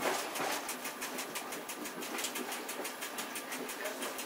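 Running noise of a double-deck (Piano Ribassato) regional train heard from inside its driving cab: a steady rolling hiss with rapid, even clicking and rattling.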